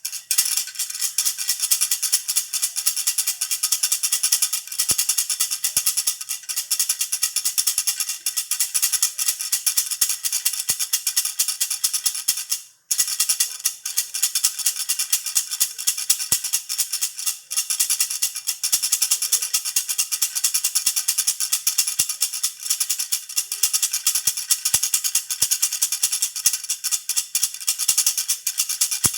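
Baby rattle (jhunjhuna) shaken continuously, a dense, bright rattling with one brief pause a little before halfway.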